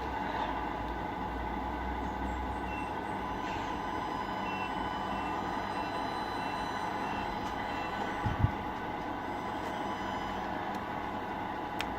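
Simulated truck diesel engine sound from an RC model truck's sound unit, running steadily, with faint short high beeps and a brief thump about eight seconds in.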